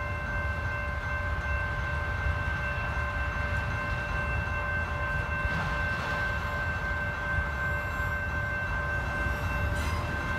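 Autorack freight cars of a long train rolling past with a steady low rumble, joined by a steady high-pitched ringing tone that holds throughout.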